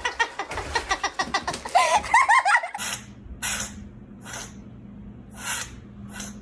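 A person laughing in quick, rapid pulses. After an abrupt cut, five short hissing bursts come over a steady low hum.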